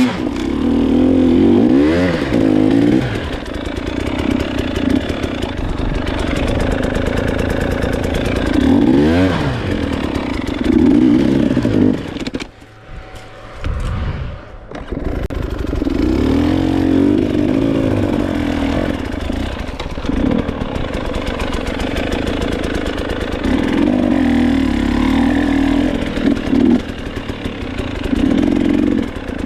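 Dirt bike engine revving up and dropping back again and again while riding, with a short lull about halfway through before it picks up again.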